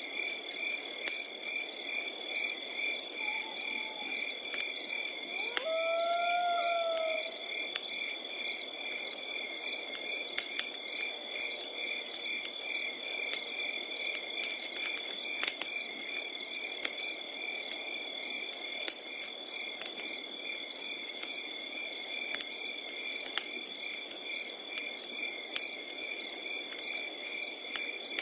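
Night insects, crickets, chirping in a steady regular pulse over a continuous high trill, with a wood campfire crackling in sharp scattered pops. About six seconds in, a single short animal call rises and then falls.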